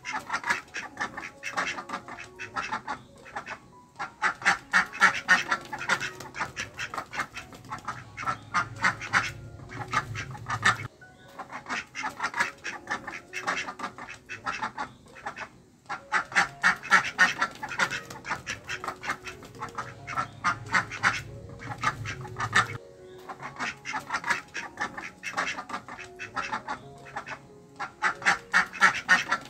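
Ducks quacking in rapid runs of short calls. The runs seem to repeat about every twelve seconds, like a looped sound-effect track.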